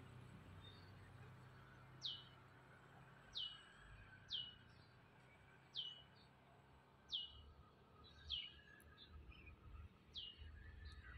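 A bird calling repeatedly: seven short, high whistles, each falling steeply in pitch, about one every second and a half. A faint low rumble runs underneath.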